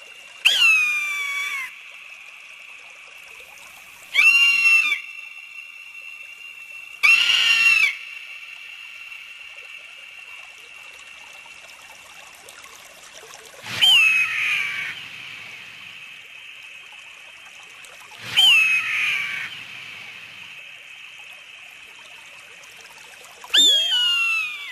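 A bird of prey screaming, six harsh high calls of about a second each that start sharp and fall in pitch, with pauses of several seconds between them over a faint steady background hiss.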